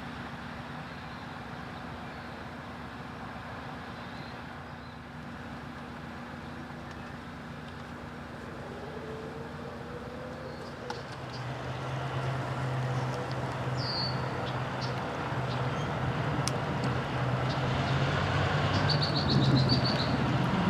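EMD SW9 switcher locomotive's diesel engine running with a steady low drone, which grows stronger and louder from about eleven seconds in. A bird chirps briefly a few times in the second half.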